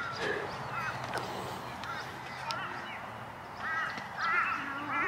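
Birds calling: a run of short, harsh calls, a few scattered early and several in quick succession in the second half.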